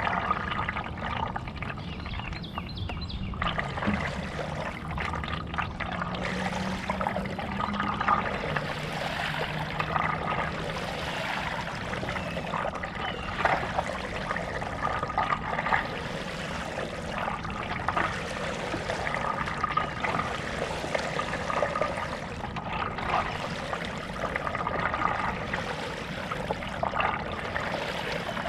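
Stand-up paddleboard paddle strokes in lake water: repeated splashing and dripping as the blade dips and lifts, with a faint low hum for a few seconds early on.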